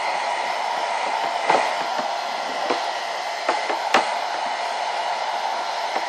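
Hand-held hair dryer running steadily, blowing air, with a few light knocks about one and a half to four seconds in.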